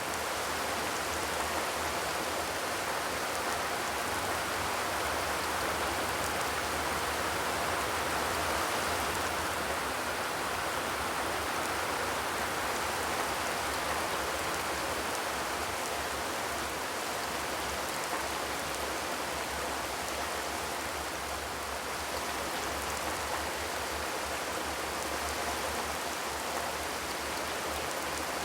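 Steady rainfall without thunder: an even, unbroken patter of rain.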